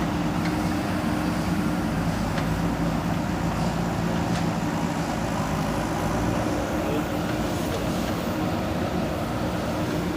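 JCB backhoe loader's diesel engine running steadily at working speed, with a few faint knocks.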